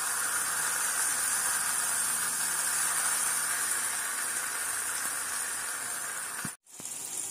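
Marinated brinjal (eggplant) slices sizzling in shallow oil on a hot dosa tawa: a steady frying hiss. The sound cuts out for a moment near the end, then resumes.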